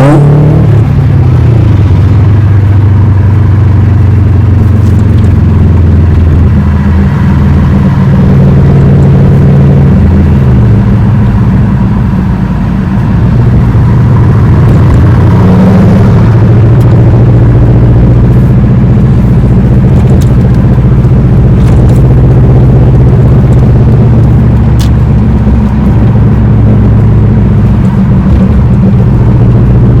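Car engine and road noise while driving, with the engine note shifting a few times.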